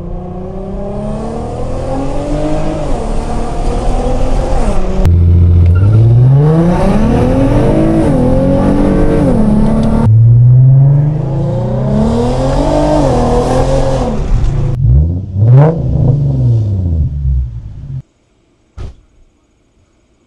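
Infiniti G37's 3.7-litre V6 through a modified exhaust (high-flow cats, Y-pipe, resonators, 3.5-inch mid pipe, axle-back), accelerating hard in three spliced runs. The pitch climbs with the revs and drops at each gear change. A few quick rev blips follow, then the sound cuts off suddenly near the end.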